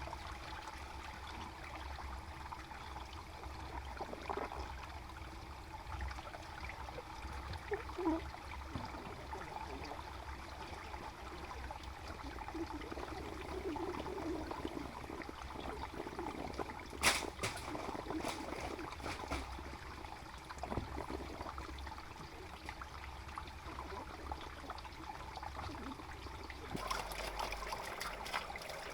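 Water trickling and running steadily, with one sharp knock about two-thirds of the way through. Near the end the water gets louder and brighter, as if it is flowing harder.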